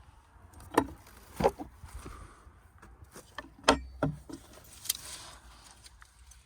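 Footsteps on rough ground: a few irregular thuds and scuffs, unevenly spaced.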